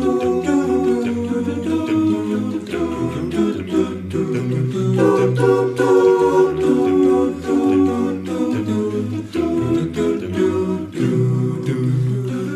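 An a cappella vocal group singing sustained wordless chord harmonies as a song's introduction, the chords changing about once a second.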